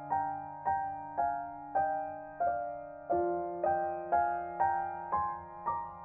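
Background piano music: a slow melody of single struck notes, about two a second, over held bass notes that change about three seconds in.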